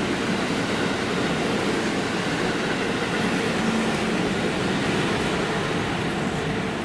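A train passing on the line, a steady rushing rumble of wheels on rails that eases slightly near the end.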